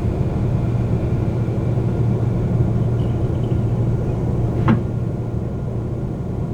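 Seoul subway train heard from inside the carriage: a steady low rumble of the train running as it slows into a station. One short sharp clank with a brief metallic ring about two thirds of the way through.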